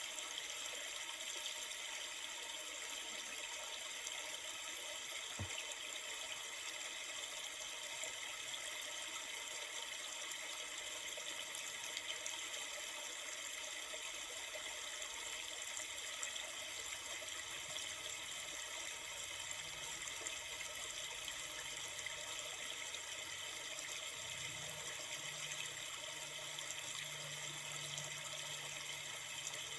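Steady flowing river water, an even hiss that does not change.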